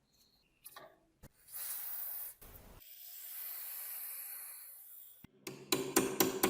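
Hissing, like a spray or a jet of air: a loud burst, a short low thump, then a longer softer hiss that swells and fades. Near the end, music with a percussive beat starts.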